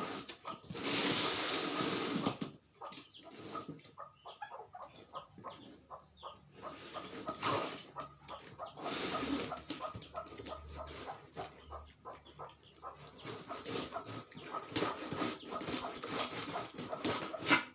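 Bantam chickens clucking and scuffling, with a few louder noisy bursts; the longest comes about a second in and lasts over a second.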